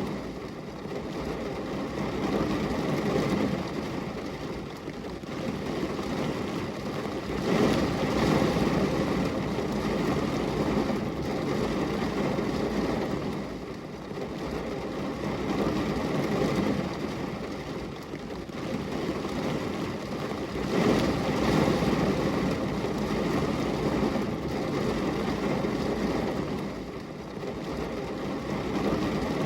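Rain falling steadily on a glass window: a dense, even hiss that swells and eases every few seconds.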